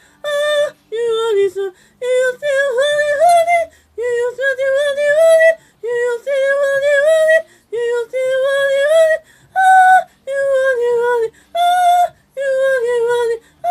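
High-pitched voice singing or wailing in short, wavering phrases, about ten in a row with brief breaths between them.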